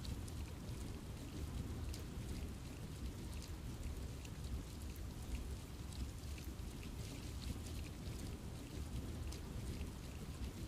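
Steady rain falling in a forest, a continuous wash of rain with many small scattered drop ticks and a low rumble underneath.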